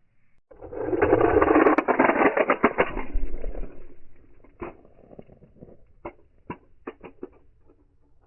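1/64-scale diecast cars rolling fast along a track: a loud rushing rumble for about three seconds. Then a scatter of sharp clicks and knocks as they crash and tumble.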